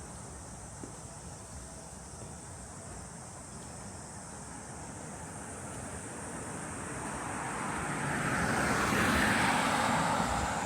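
A motor vehicle approaching and passing close by: its engine and tyre noise swells gradually and is loudest near the end.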